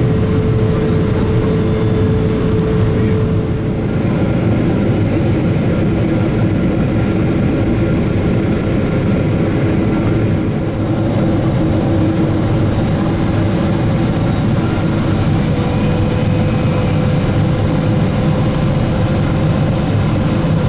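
Boeing 777-200ER cabin noise during the descent: a steady rush of air and engine noise. A thin engine hum drops in pitch about four seconds in, and a higher one rises later as the engine power changes.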